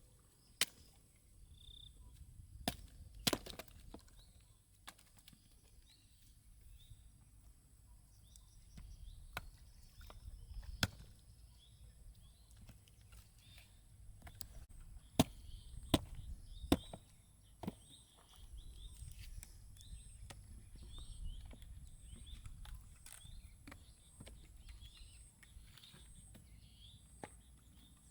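Scattered sharp knocks and cracks at irregular intervals, the loudest three coming close together about fifteen to seventeen seconds in, over a low rumble, with faint short high chirps in the second half.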